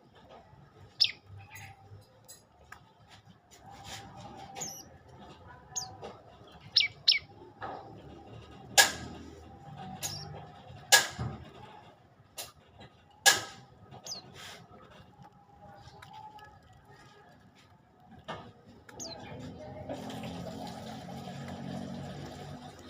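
Prenjak lumut, a small songbird, calling in short, sharp, high chirps at irregular intervals, the loudest three in the middle; a steady background noise rises near the end.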